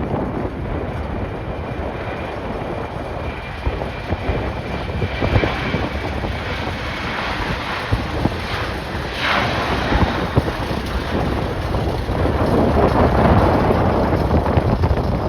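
Strong gusty wind buffeting the microphone, mixed with the rushing noise of jet airliner engines and a faint engine whine near the start.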